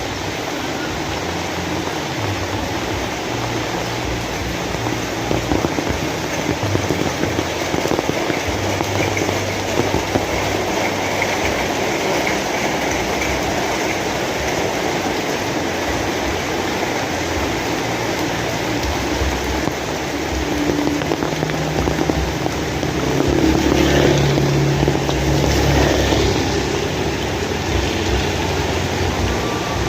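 Steady heavy rain falling as an even hiss. About three-quarters of the way through, a louder low rumble swells for a few seconds and fades.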